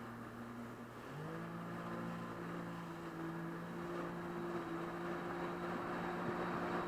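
Jet ski engine running, its pitch rising about a second in as the throttle opens, then holding steady at speed, over a steady hiss.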